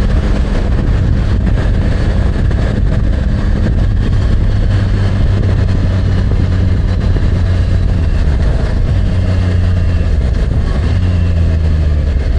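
Yamaha MT-09's three-cylinder engine running at a steady low pitch under way, its note stepping slightly up and down, over a constant rumble of wind and road noise.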